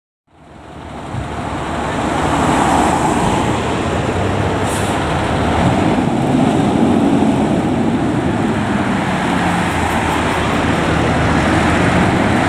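Road traffic noise with a heavy vehicle's engine running steadily, fading in over the first two seconds.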